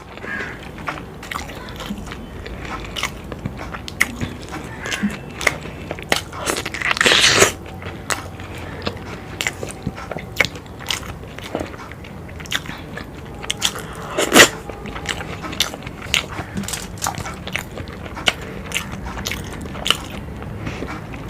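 Close-miked eating: a person biting and chewing crunchy food, with many sharp crunches and crackles, a louder noisy stretch about seven seconds in and one loud crunch about fourteen seconds in.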